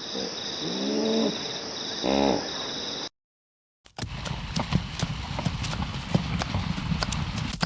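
A horse calling in short pitched cries, then after a brief silence, horse hooves clip-clopping in an irregular run of sharp knocks.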